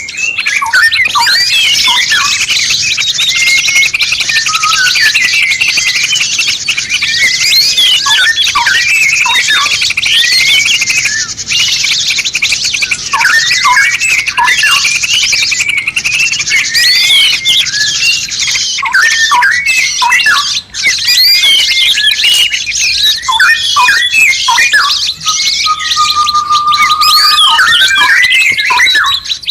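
A dense, unbroken run of songbird calls: fast sweeping chirps and trills, with a single held whistle near the end. It is a masteran recording for training caged songbirds to sing.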